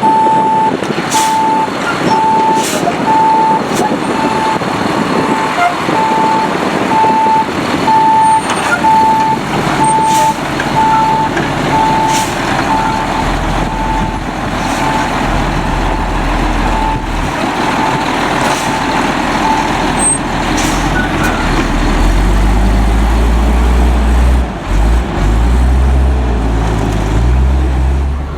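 Autocar front-load garbage truck backing up, its reversing alarm beeping steadily about one and a half times a second for most of the first twenty seconds over the engine. The engine then grows louder and deeper, running hard near the end.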